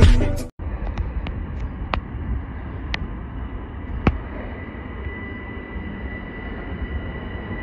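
Music cuts off about half a second in. Then a Long Island Rail Road electric commuter train approaches a station platform: a steady low rumble with a few sharp clicks, and a steady high whine that sets in about five seconds in.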